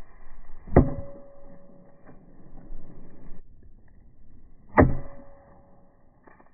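Two hard strikes of a 3.5-pound axe into die-cast toy cars, about four seconds apart, each leaving a short metallic ring.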